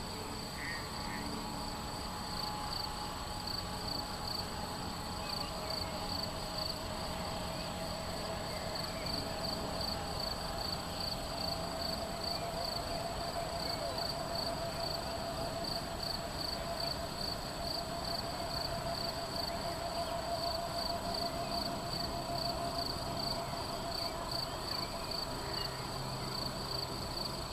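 Crickets chirping in a steady, even, high-pitched pulse, with a faint low wavering hum running through the middle of the stretch.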